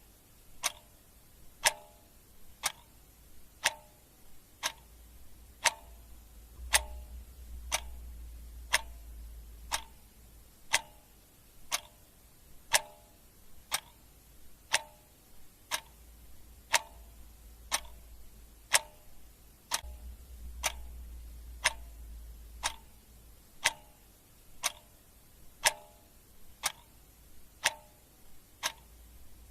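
Clock ticking steadily, one sharp tick about every second. A faint low rumble swells up twice in the background.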